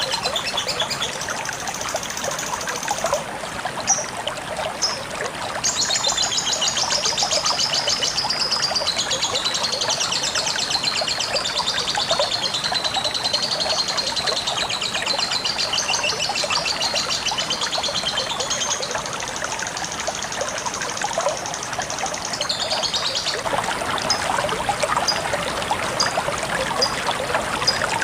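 Lovebird singing a long, rapid chattering trill that runs for over ten seconds, with shorter chirps before and after, over steadily trickling water.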